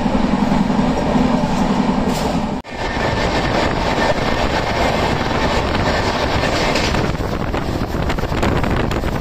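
Passenger express train running at speed, heard from an open coach door: a steady rumble and rail noise that drops out for an instant about two and a half seconds in, then carries on inside a tunnel, turning to a rapid clatter of wheels near the end.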